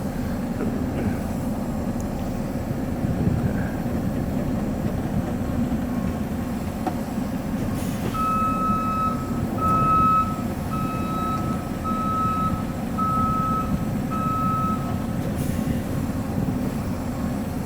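Semi truck's diesel engine running steadily, with a reversing alarm beeping six times about a second apart, starting about eight seconds in.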